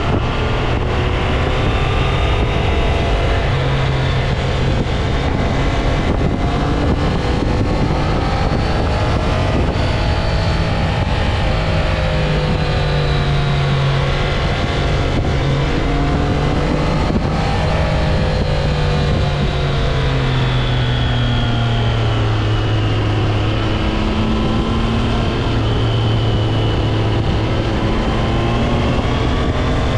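Triumph Trident 660's inline three-cylinder engine under way on a ride, its note rising and falling repeatedly as the rider accelerates, shifts and rolls off through bends.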